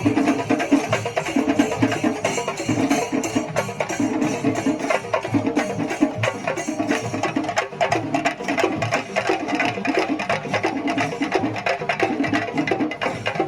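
Kerala temple percussion ensemble playing live: drums struck with sticks in a fast, dense, steady rhythm over a band of repeating pitched notes.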